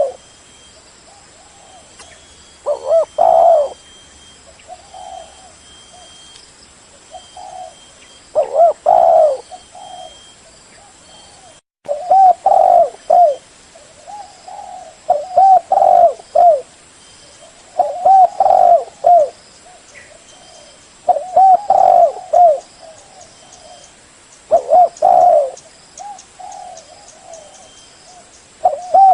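Spotted dove cooing: loud, low, multi-note coo phrases repeated every three seconds or so, with softer coos in between. The sound drops out for a moment about twelve seconds in.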